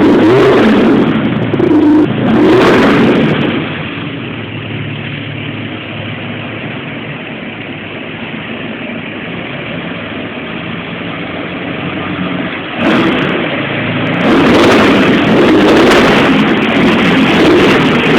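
Chevrolet Opala's carbureted inline six-cylinder engine revved in two blips, then idling for about nine seconds, then revved hard again over the last few seconds.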